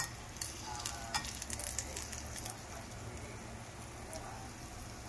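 Breaded shrimp deep-frying in hot olive oil: a steady sizzle with sharp crackles and pops, which come thickest in the first couple of seconds and then thin out.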